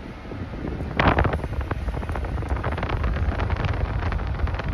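Wind buffeting a phone microphone: a sudden loud rush about a second in, then a steady low rumble with crackling.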